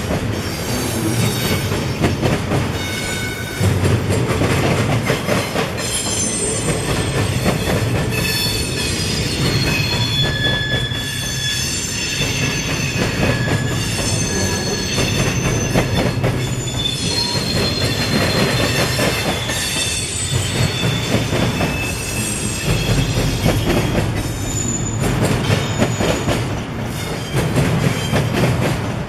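Freight train rolling past, its wheels squealing in several high, shifting tones over a steady rumble and clatter of wheels on the rails.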